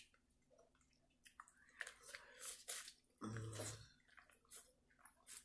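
Close-up chewing and lip-smacking on buttered corn on the cob, in short spurts of wet clicks. A short low hum comes about three seconds in.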